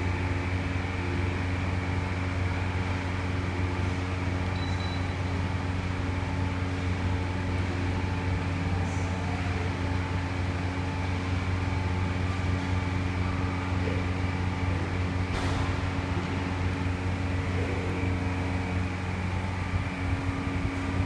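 Steady low mechanical hum of a 54-inch MT.EDMA Contractor ceiling fan running, under the steady drone of the parking lot around it, with one short click about fifteen seconds in.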